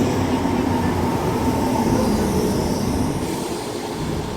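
Class 319 electric multiple unit pulling into the platform, its steady running noise easing slightly near the end as it slows.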